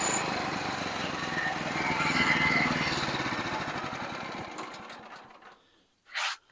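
Portable sawmill's engine shut down and running down, its pulsing sound fading steadily over about five seconds until it stops.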